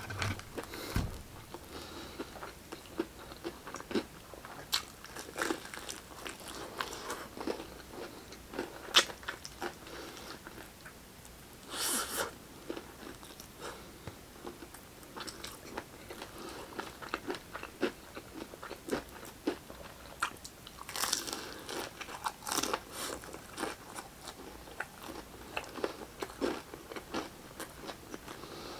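Close-miked eating of fried chicken: irregular crunchy bites and chewing with wet mouth clicks, the loudest crack about nine seconds in.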